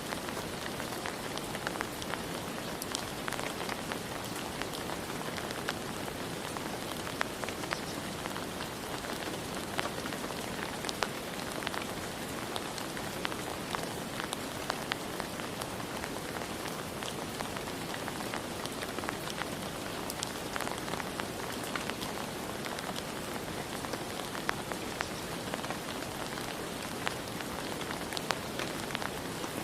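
Steady rain falling on a surface, a continuous hiss with many distinct drop ticks scattered through it.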